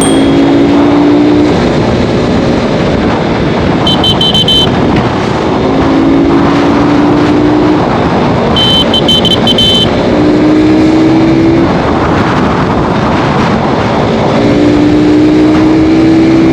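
KTM RC 390 single-cylinder engine, fitted with a K&N performance air filter, pulling under load. Its pitch climbs steadily in each gear and drops at each upshift, about four times, over steady rushing noise. Two short runs of high beeps come about 4 and 9 seconds in.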